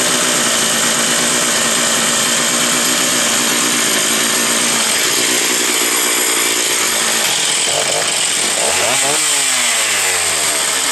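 Stihl 028 two-stroke chainsaw engine running steadily. Its engine speed swings up and down about eight to nine seconds in.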